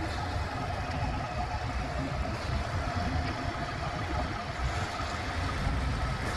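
Heavy truck's diesel engine running at low speed, a steady low rumble with a faint whine over it, heard from inside the cab while the truck is maneuvered into a loading dock.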